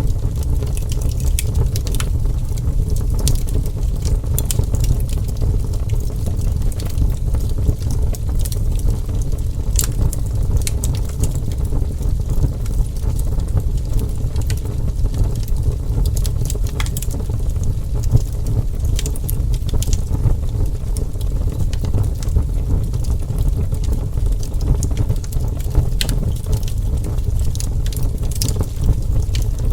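Burning wood fire: a steady low rumble of flames with scattered, irregular sharp crackles and pops.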